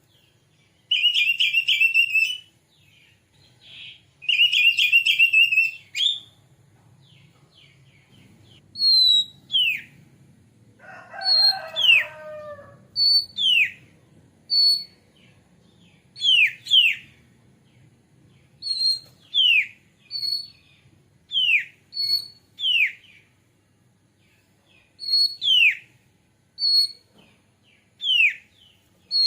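Oriental magpie-robin (kacer) singing: two buzzy, trilled phrases, then a long run of loud clear whistles, each a short high note followed by a falling slur, repeated every second or two. A brief lower, harsher call with several overtones comes about twelve seconds in.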